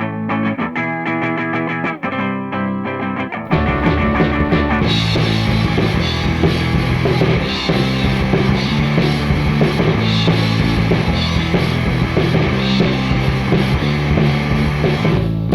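Instrumental intro of a rock song: a guitar alone for about three and a half seconds, then the full band comes in with drums and bass and a steady beat.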